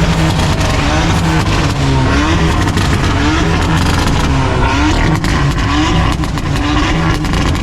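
Tuned aftermarket exhaust on a Hyundai turbo four-cylinder, revved in repeated blips about once a second. Sharp crackling pops come between about five and seven seconds in: the pop-and-bang of the tuned exhaust.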